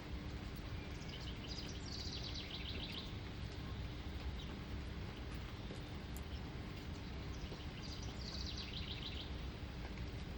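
A small songbird sings a short, fast trill twice, about a second in and again near the end, over a steady hiss of outdoor background noise.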